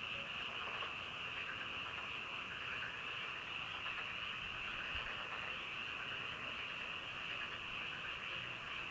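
A chorus of frogs calling: a dense, continuous high-pitched trilling that holds steady without a break.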